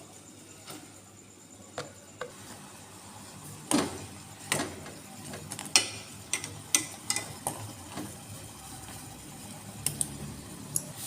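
Irregular clicks and clacks of kitchen utensils and dishes during noodle preparation, with a few sharper knocks around the middle.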